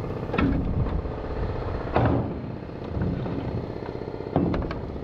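Diesel truck engine running steadily, with several louder swells.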